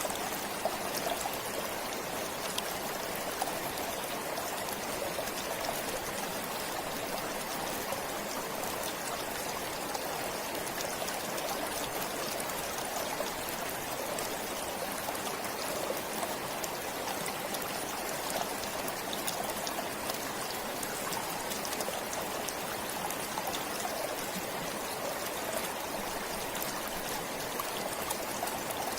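A stream flowing steadily, an even rush of running water with fine droplet ticks.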